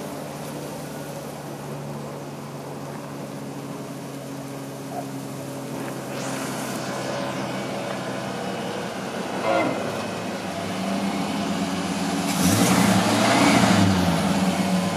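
Ford 302 V8 engine of a 1934 Ford ute running at a slow parking-lot roll, getting louder as the car drives up and passes close near the end. A constant sound runs under it, which the owner puts down to the car's electric fuel pump.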